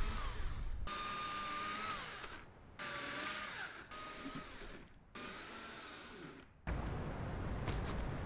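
Wind hissing, with a thin whistle that holds and then drops in pitch, in several short segments that cut in and out abruptly.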